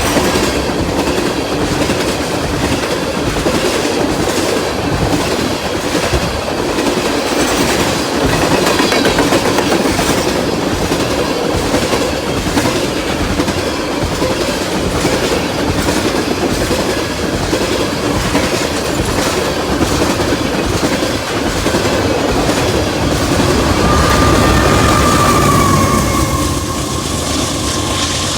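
Freight train of tank cars rolling past, wheels clattering steadily over the rail joints. Near the end a high, steady wheel squeal sets in.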